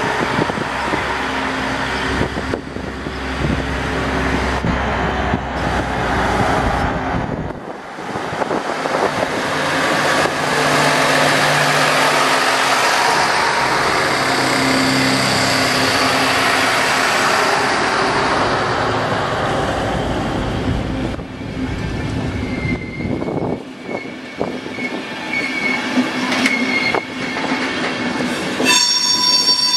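NEG VT 71 diesel twin railcar running. Its engine hums, then a rolling wheel-and-rail noise swells and fades as it moves off. A high wheel squeal comes in the second half and grows louder near the end.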